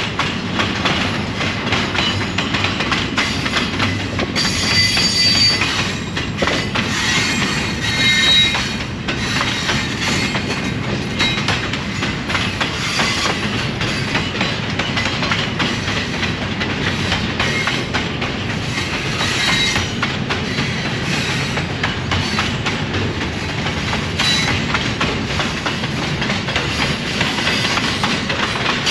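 Train cars rolling past steadily, the wheels clicking over the rails, with brief high-pitched wheel squeals several times.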